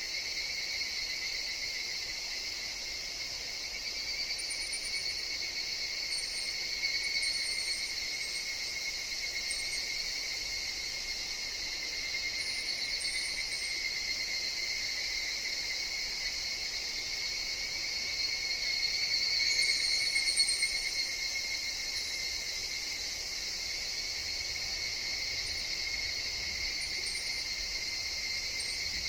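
Insect chorus of higurashi evening cicadas (Tanna japonensis): a steady, high, shrill drone that swells for a few seconds about two-thirds of the way in. Faint short chirps sound high above it now and then.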